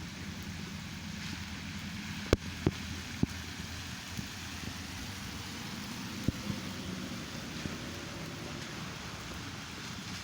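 Car engines running and traffic passing, a steady low hum under a hiss, with a few sharp clicks about two to three seconds in and again around six seconds.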